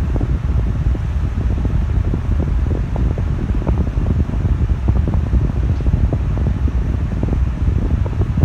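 Mondial Maxi Power 40 six-blade electric fan running steadily, its airflow buffeting the microphone with a loud, uneven low rumble.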